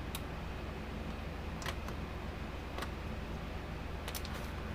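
A few scattered light clicks and taps of tools working at the fence charger's case and transformer, over a steady low hum.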